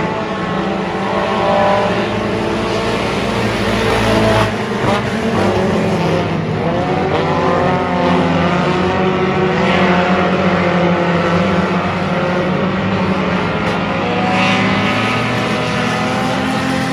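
Race car engine running hard, its revs rising and falling again and again.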